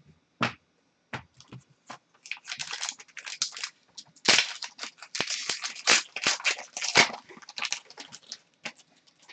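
Trading cards and their packaging being handled close up: a run of rustling and crinkling with sharp clicks and slides, busiest in the middle.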